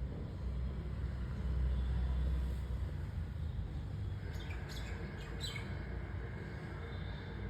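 A steady low rumble, with a few short bird chirps about four to five and a half seconds in.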